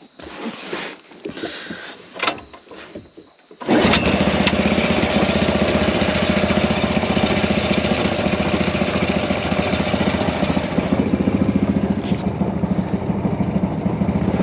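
Predator 212 single-cylinder four-stroke engine starting a little under four seconds in and then running steadily at a fast idle, after a few seconds of scattered knocks and handling noises.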